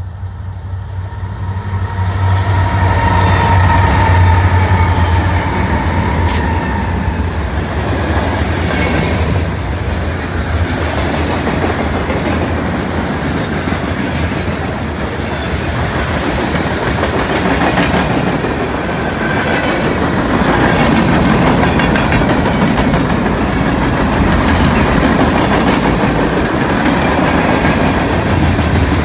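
Freight train passing close by. A low diesel locomotive drone builds and peaks in the first few seconds, then gives way to the steady rumble and clatter of freight-car wheels rolling over the rails.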